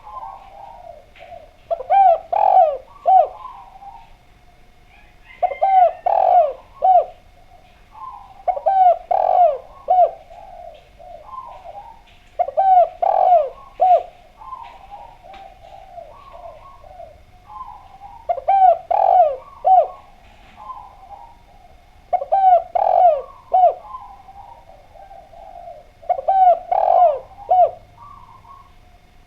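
Spotted dove (Javanese derkuku) cooing: a loud phrase of three or four throaty coos, repeated about every four seconds, with softer coos between the phrases.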